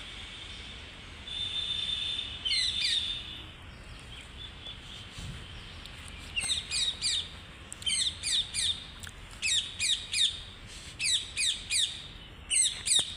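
Birds calling: a held high note about a second in, then repeated short, sweeping high calls in quick groups of two or three from about six seconds on.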